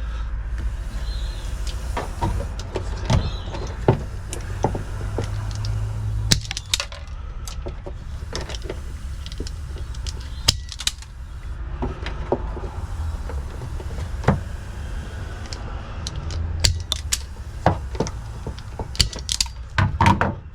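Scattered clicks, taps and light rattles of small tools and wiring being handled, over a steady low rumble.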